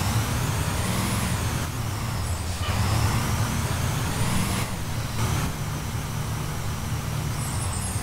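2016 Blue Bird Vision school bus driving, its engine running steadily, with a higher whine that rises in pitch twice, in about the first second and again around three to four and a half seconds in.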